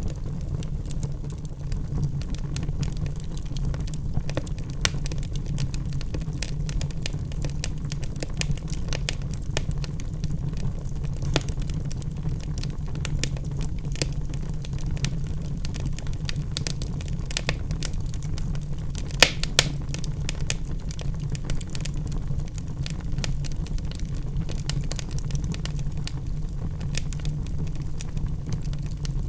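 Wood fire burning in a fireplace: logs crackling with frequent small pops over a steady low rush of the flames, with two louder snaps close together about two-thirds of the way in.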